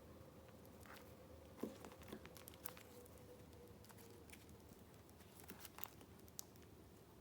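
Soft crinkling and small ticks of the paper and card of a handmade junk journal being handled, bunched about two seconds in and again near six seconds, over a faint steady hum.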